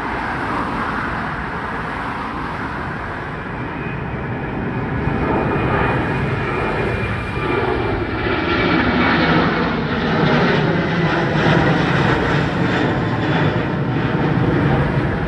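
Jet airliner taking off, its engines at take-off thrust, the noise building as it comes closer, with a faint high whine early on.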